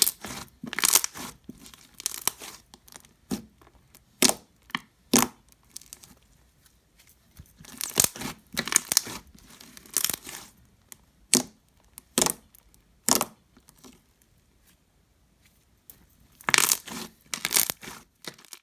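Thick, glossy homemade slime being squished and stretched by hand, making irregular clicks and bubble pops in short bursts with brief pauses between.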